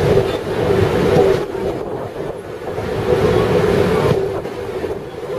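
Mumbai suburban electric local train running along the track, heard from aboard: a continuous rumble with a steady hum, easing a little in loudness about two seconds in and again near the end.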